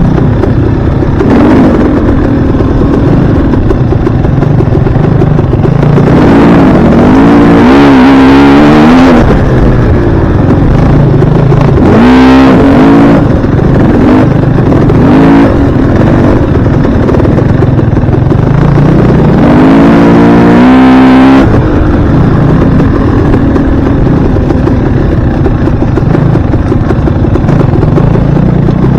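Dirt bike engine running hard, revving up in rising surges several times and easing off in between.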